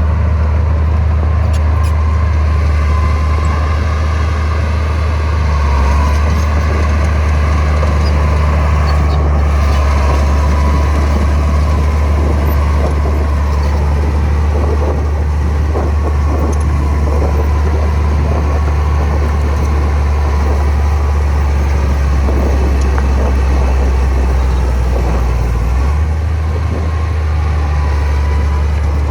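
Heavy diesel engine of earthmoving machinery running steadily with a deep rumble, its engine note shifting about six seconds in and again near the end.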